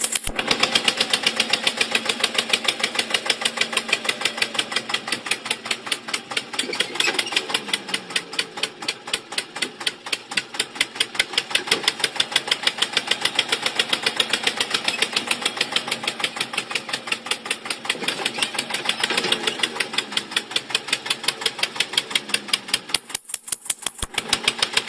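Small motor-driven mechanism of a homemade model tractor running, giving a fast, even clatter of sharp clicks, several a second, with no deep engine rumble.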